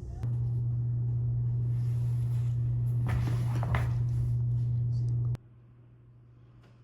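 A steady low hum that starts just after the beginning and cuts off suddenly about five seconds in, with a couple of faint knocks partway through.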